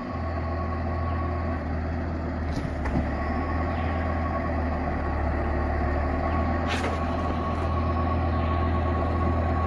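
Heavy vehicle engine running steadily with a deep drone and a thin steady whine above it, broken by a few short sharp clicks.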